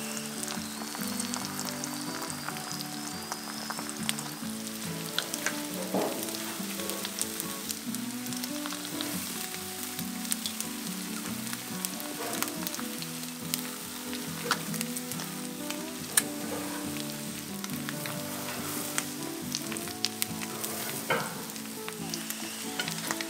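Steady sizzle of eggs and bacon frying in hot fat over a braai fire, with frequent small crackling pops of spattering oil.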